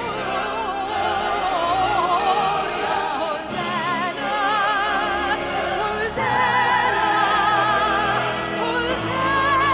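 Orchestra and singers performing a Christmas carol, the voices sustaining long notes with a wide vibrato.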